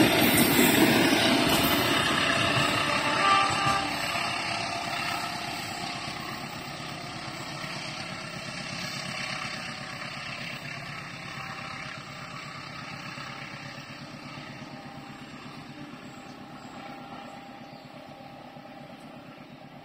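A freight train's last wagons running past on the rails, loud at first and fading steadily as the train moves away down the line.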